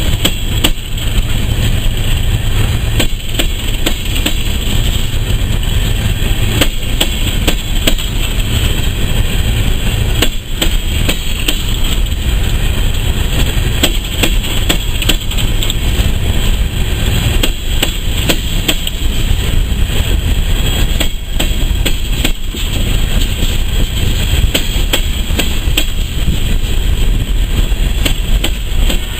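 Empty coal train hopper cars rolling past, with a steady heavy rumble and irregular clanks and bangs from the wheels on the rails.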